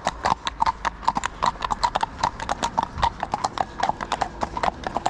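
Several ridden horses' hooves clip-clopping at a walk: a quick, steady run of sharp hoof strikes.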